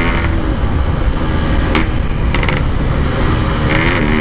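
Yamaha RX-King two-stroke single-cylinder motorcycle ridden off the throttle, its engine note sinking into rough wind and road noise. Near the end the steady engine note picks back up with a short rising rev.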